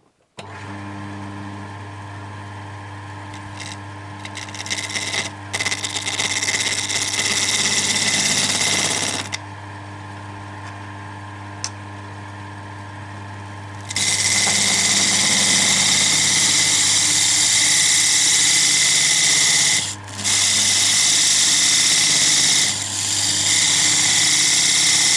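A wood lathe's motor starts about half a second in and runs with a steady hum. A parting tool then cuts into the spinning segmented wood blank, giving a loud hissing, scraping cut from about four to nine seconds and again from about fourteen seconds on, with a short break near twenty seconds. This is the tool parting a ring off the blank.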